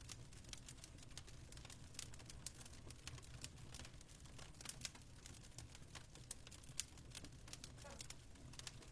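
Fireplace crackling: many small irregular pops and snaps over a low steady hum.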